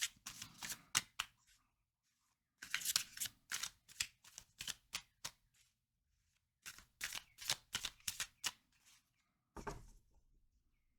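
A deck of tarot cards being shuffled by hand in three runs of rapid crisp clicks, with pauses between, then a single soft knock near the end.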